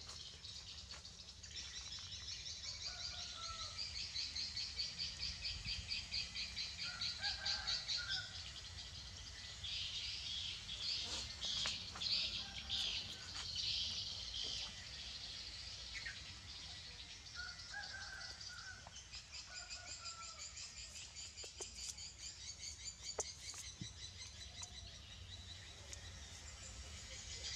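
Birds chirping and calling: a rapid, high-pitched trilling chorus that swells, fades and swells again, with a few short lower calls mixed in.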